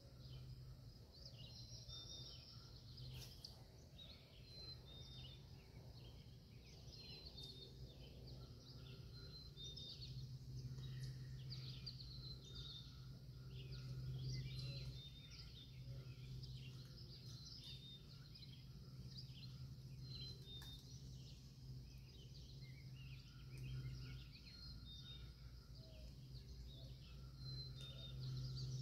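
Many small birds chirping and singing, with short high notes repeating about once a second, over a faint low steady hum that swells for a few seconds in the middle.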